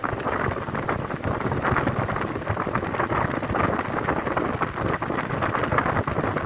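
Dômina 50 cm wall fan running, a steady rush of moving air.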